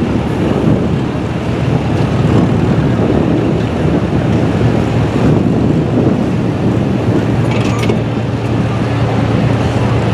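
1997 Dodge pickup pull truck running hard under load as it drags the weight sled down the track, a loud steady engine roar.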